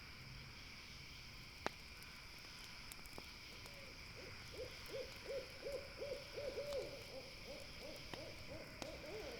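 An owl calling a rapid run of short hoots, about five a second, starting about four seconds in and lasting to the end. Under it runs a steady high insect chorus, with a few sharp campfire crackles.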